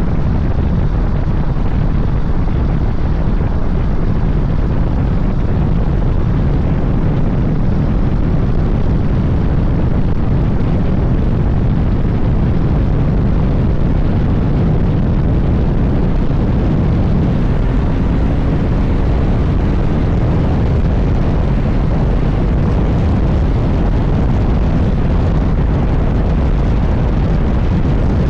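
Suzuki GSX-S1000GT inline-four motorcycle being ridden, with loud, steady wind rumble on the microphone over the engine and road noise.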